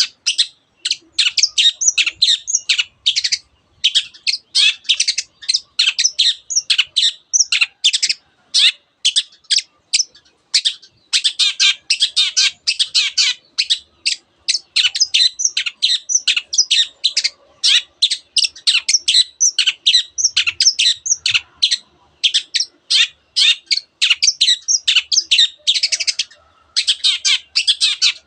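Long-tailed shrike singing a fast, dense stream of sharp chirps and warbles, with mimicked song of other birds such as the canary woven in. It pauses only briefly now and then.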